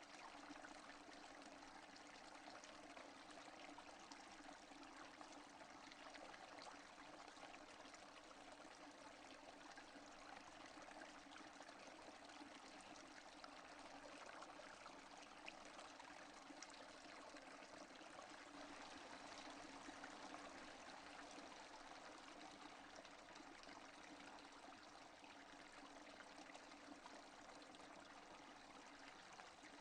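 Steady rain falling, faint, a continuous even patter of drops.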